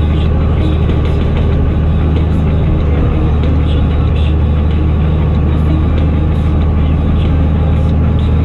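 Fendt Favorit 926 Vario tractor's six-cylinder diesel running steadily through an open exhaust pipe, a loud, even low-pitched drone.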